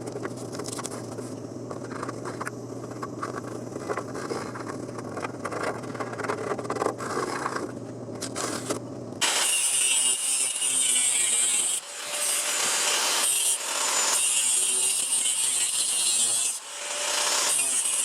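A power tool cutting or grinding the rusted sheet-metal body. It starts abruptly about nine seconds in and runs in long passes with brief pauses, after a low steady hum with light scraping.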